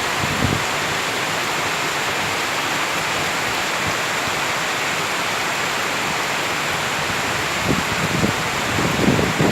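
Heavy rain falling steadily in forest, an even, unbroken hiss. Low gusty rumbles come in near the end.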